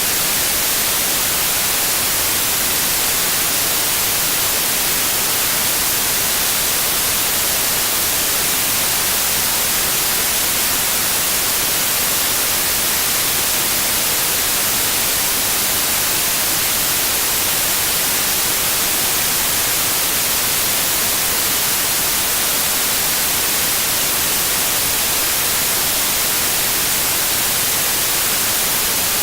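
Steady white noise: an even, unbroken hiss, strongest in the high range, that does not change in level.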